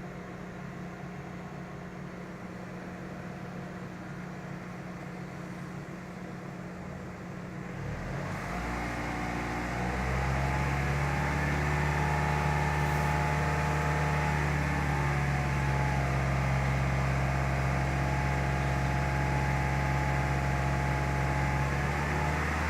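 Car engine idling, then raised to a steady higher speed about eight to ten seconds in and held there.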